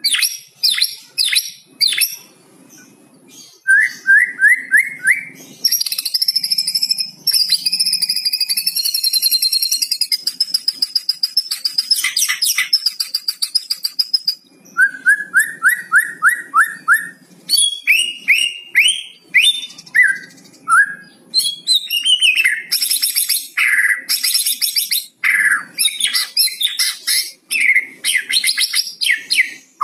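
White-rumped shama singing its crackling 'kretekan' song, used as a lure call. It runs through fast strings of repeated rising notes and a long buzzy rattle lasting several seconds, mixed with sharp whistled and chattering phrases.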